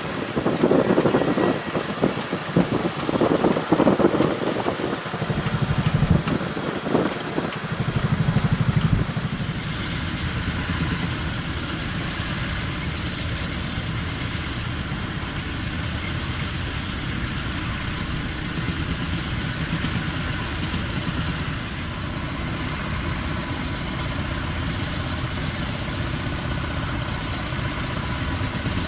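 Tractor engine running, with louder, uneven noise over the first several seconds that settles into a steady drone.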